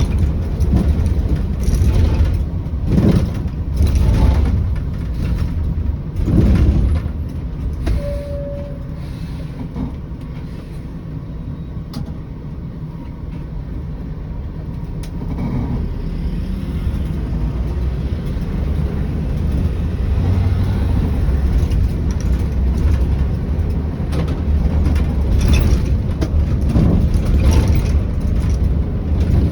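Scania 113 bus on the move: the diesel engine runs with a steady deep drone of engine and road noise, with knocks and rattles over bumps. It eases a little in the middle and picks up again towards the end.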